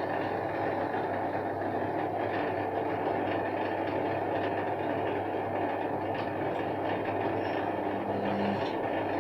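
Candy front-loading washing machine draining after the rinse: the drain pump hums steadily under the noise of water running out, and part of the hum stops shortly before the end.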